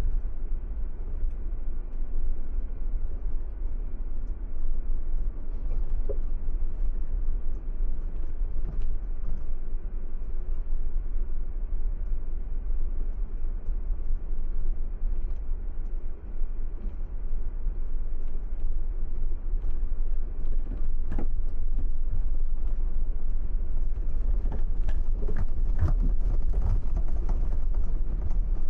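Car driving on the road: a steady low rumble of tyres and engine, with a few sharp knocks and rattles in the last several seconds.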